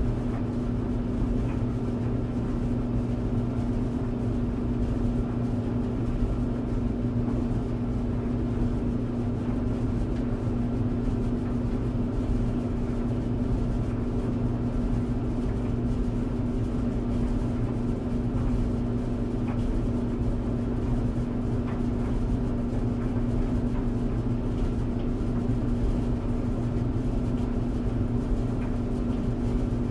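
Tumble dryer running: a steady motor hum over the low rumble of the turning drum, with a few faint ticks.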